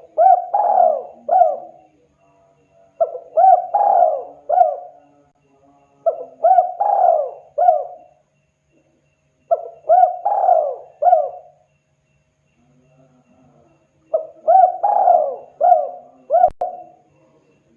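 Spotted dove (tekukur) cooing: five phrases of three or four short notes, each phrase about two seconds long and repeated every three to four seconds, with a longer pause before the last. A single sharp click comes near the end.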